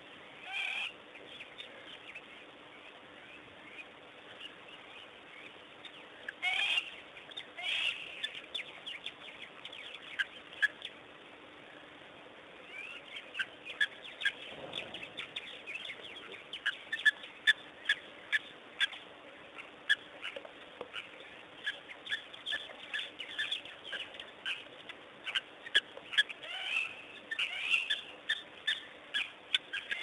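Wild birds chirping at a waterhole: a few short calls in the first several seconds, then rapid, thickly repeated short chirps from about halfway on.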